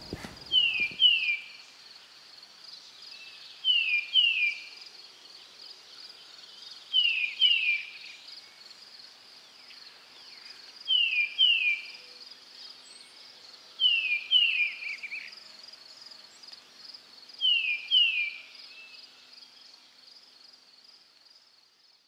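A bird calling: pairs of short, high notes that fall in pitch, repeated about every three to four seconds, over a faint steady high-pitched hiss.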